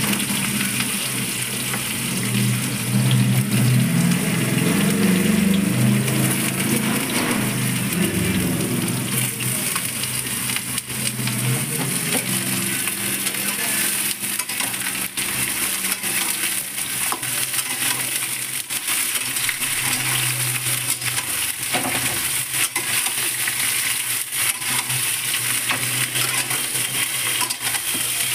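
Brinjal pieces frying in hot oil in a steel kadai with a steady sizzle. A steel spatula stirs them, scraping and clicking against the pan.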